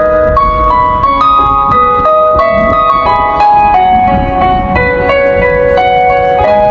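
Instrumental interlude of a karaoke backing track: an electronic keyboard plays a melody of held notes that step from one to the next. Sea wind rumbles on the microphone underneath.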